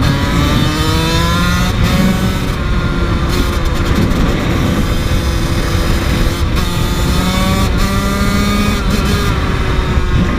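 KTM 85 two-stroke dirt bike engine accelerating hard, its pitch climbing and dropping back several times as it shifts up through the gears, with a steadier stretch in the middle.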